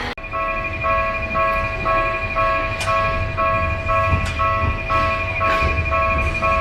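Railway level-crossing warning bell ringing electronically, a repeating two-tone ding about twice a second, over low street-traffic rumble, with a few sharp clicks.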